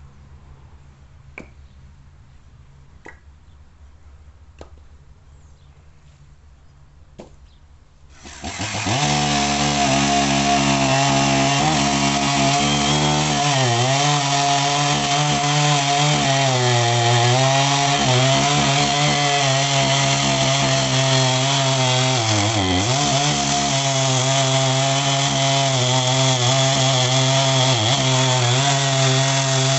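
Two-stroke chainsaw comes in loud about eight seconds in and runs steadily, cutting eucalyptus firewood, its engine pitch sagging briefly twice under load. Before it, only a few faint clicks.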